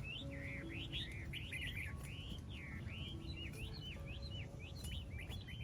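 Songbirds chirping continuously: a rapid, busy run of short chirps rising and falling in pitch, over a low rumble.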